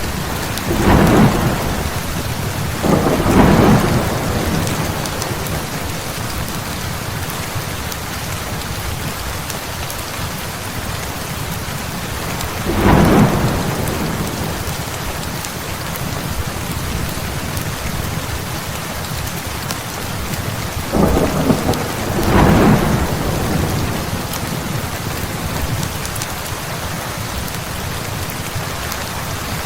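Heavy rain falling steadily, with thunder rumbling up five times: twice near the start, once in the middle and twice more about two-thirds of the way through.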